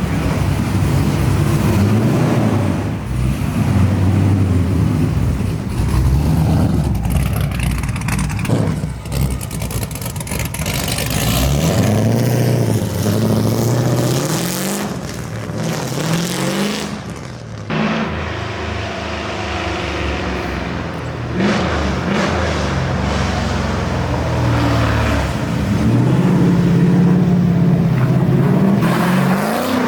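LS6 V8 in a BMW E36 drift car, breathing through dual 3-inch pipes with no mufflers, revving up and falling back again and again with rising and falling pitch.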